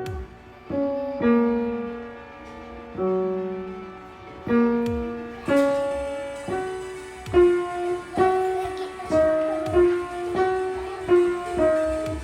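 A piano played slowly, one note or chord at a time, each ringing and fading; the notes come closer together in the second half, as in practising a piece.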